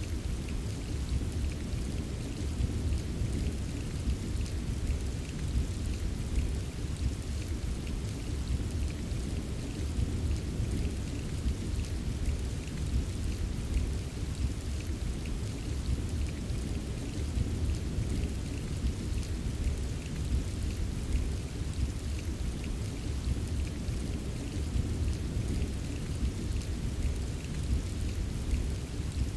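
Steady rain ambience: constant rainfall with fine drop ticks over a continuous low rumble, unchanging throughout.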